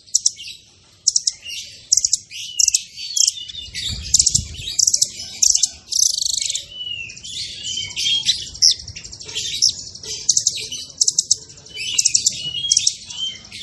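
Songbird singing a fast, dense song of rapid trills and chirps, broken by short curved whistled notes. A brief low thud comes about four seconds in.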